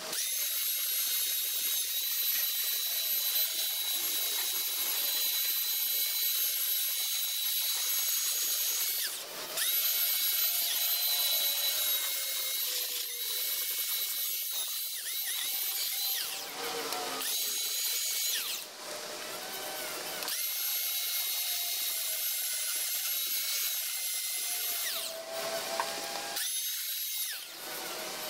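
Electric grinder running with a steady high whine as it grinds glue and rough edges off marine plywood. It is let off and spins back up several times, with short pauses between runs.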